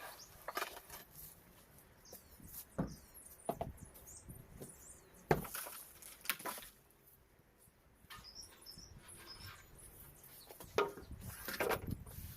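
Scattered knocks and scrapes at irregular intervals from hand work on timber decking, with a bird chirping a few times.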